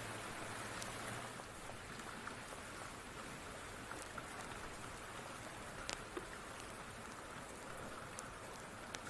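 Steady rain falling, with a few sharp pops and ticks scattered through it.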